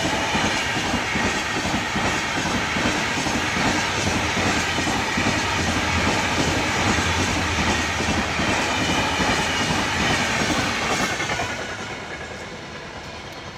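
Train passing on the rails, its wheels clacking steadily over the rail joints. The sound fades away from about eleven seconds in as the train draws off.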